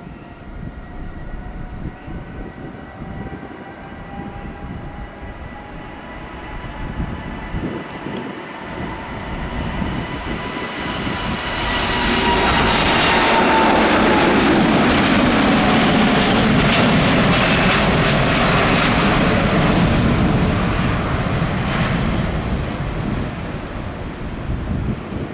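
Boeing 787-9 jet engines on takeoff: a steady whine of several tones that drifts slightly lower, building into a loud roar about twelve seconds in as the aircraft passes, then slowly fading.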